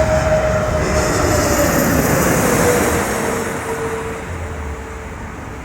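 Jet airliner passing close on its landing approach: a rushing engine noise with an engine whine that falls steadily in pitch as it goes by, then fades over the last couple of seconds.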